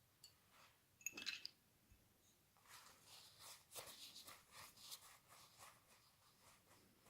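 Faint handwork on small parts: a brief cluster of light metallic clinks about a second in, then a run of quick, light scratching strokes.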